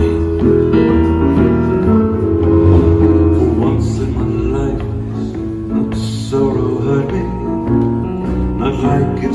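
Live piano-bar music: an instrumental passage of piano chords over a steady bass line, with no sung words.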